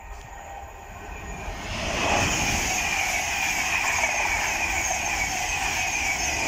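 Passenger train passing close by on the main line: a rush of wheel and air noise that builds about a second and a half in and stays loud, with a high whine falling slowly in pitch.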